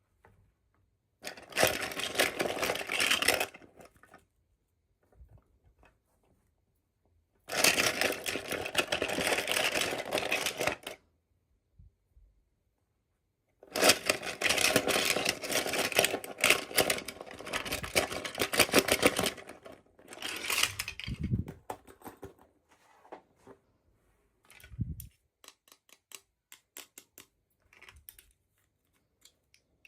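Packaging being torn open and crinkled by hand in three long crackling bursts, followed by scattered small clicks and taps as the pieces are handled.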